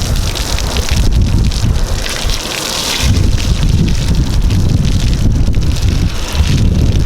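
Wind buffeting the microphone: a loud, gusty rumble with hiss, easing briefly about two and a half seconds in.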